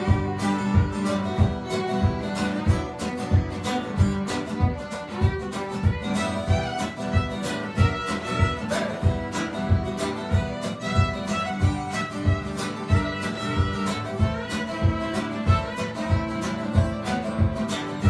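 Instrumental break of a folk song: fiddle and guitar playing over a steady beat of low thumps, about two a second.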